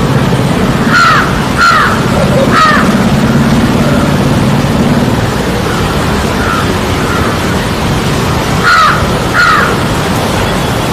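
A bird giving loud, harsh calls, three in quick succession and then two more near the end, over a steady background rumble.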